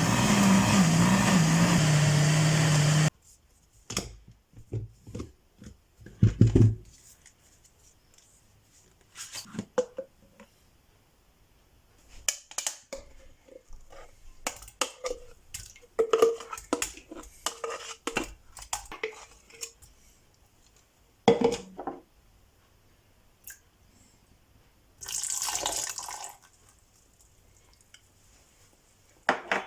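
A loud whirring motor with a wavering hum runs and cuts off suddenly about three seconds in. After it come scattered clinks, taps and knocks of kitchen utensils and dishes being handled, with a short burst of running water about 25 seconds in.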